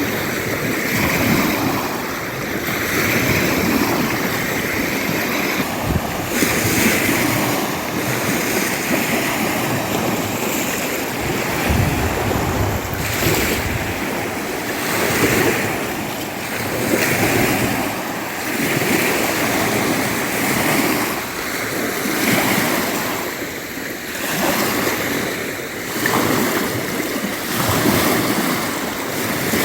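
Storm-driven waves washing in against the pond shore, swelling and easing about every two seconds, with strong wind gusting over the microphone.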